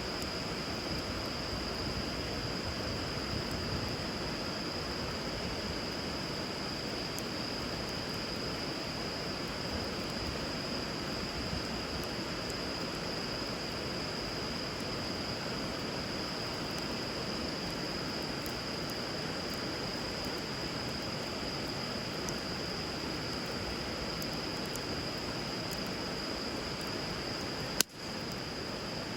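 A river flowing steadily, with a wood fire crackling faintly now and then and a steady high tone above it. One sharp pop near the end.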